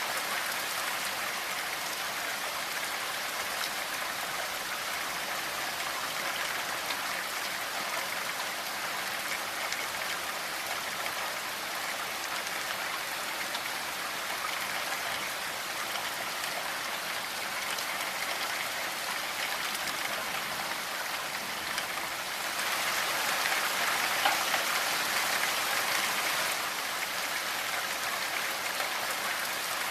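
Steady rainfall, a dense even patter that grows heavier for a few seconds past the middle and then eases back.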